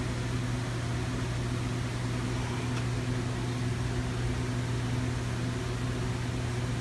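Steady low machine hum with a constant pitch over background hiss, and a faint click about three seconds in.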